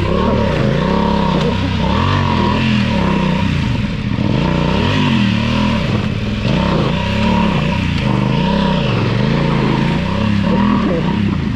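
Motorcycle engine revving up and down over and over, the throttle opened and closed about once a second as the bike is ridden on through deep river water.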